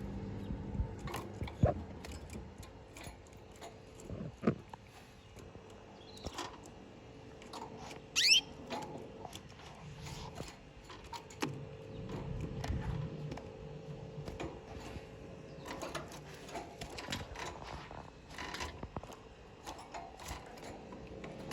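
Canaries moving about in a cage: scattered light taps and clicks, with one short rising chirp about eight seconds in, over a faint steady hum.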